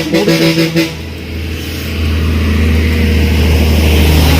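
A road vehicle honks its horn in a few short blasts, then its engine grows steadily louder as it approaches.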